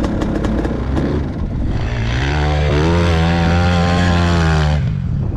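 Enduro motorcycle engine rising from a low run to high revs about two seconds in, held there for nearly three seconds, then dropping off near the end.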